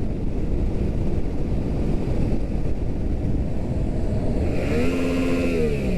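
Riding a 2018 Yamaha MT-07 parallel-twin motorcycle: a steady rumble of engine and wind noise. Near the end, an engine note rises, holds briefly and falls.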